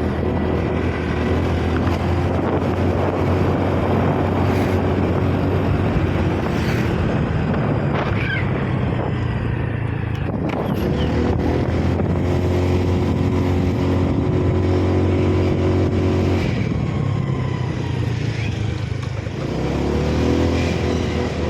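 Motor vehicle engine running steadily on a climb, its pitch shifting a few times: around the middle and again near the end.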